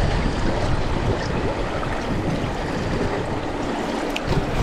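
Clear mountain stream rushing steadily over its bed around the wading angler.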